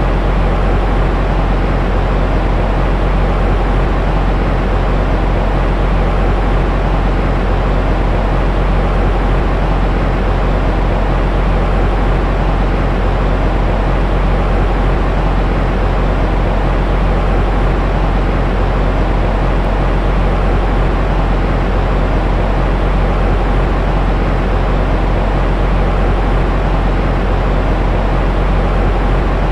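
Steady, unchanging white-noise track for baby sleep: a deep, rumbling rush weighted toward the bass, with little hiss at the top.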